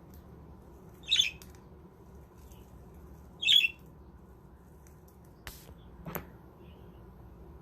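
Budgerigar giving two short, loud squawks about two seconds apart, followed by two faint clicks.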